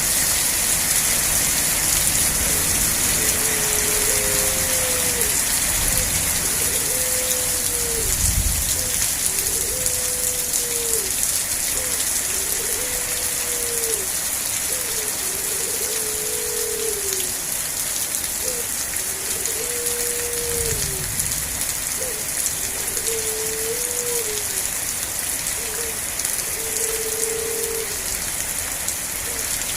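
Steady rain falling, an even hiss strongest in the high end. From a few seconds in, a low pitched call repeats about every two seconds, and two low rumbles swell, one about eight seconds in and one about twenty-one seconds in.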